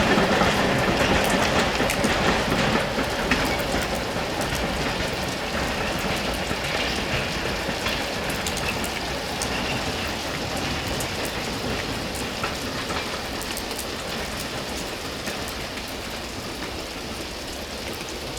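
Train wagons rolling along the track with scattered wheel clicks, growing steadily quieter as the train moves away.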